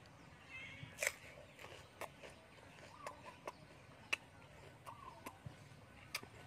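Close-up eating sounds: a person chewing crunchy raw cucumber, with sharp wet mouth clicks spaced a second or so apart. A few faint, short rising-and-falling animal calls sound in the background.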